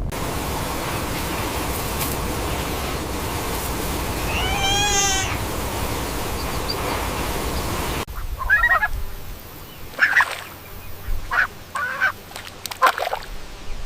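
A cat meowing: one drawn-out meow over a steady rush of background noise. After a sudden cut about eight seconds in, a series of short animal calls follows.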